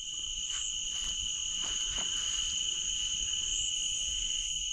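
Night insects, crickets or katydids, trilling in a steady, unbroken high-pitched chorus.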